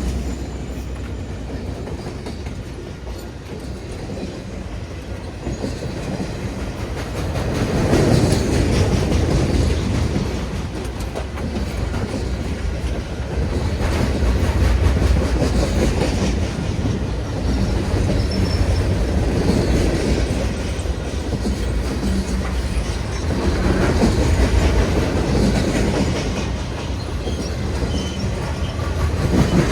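A train running: a steady low rumble that swells every few seconds.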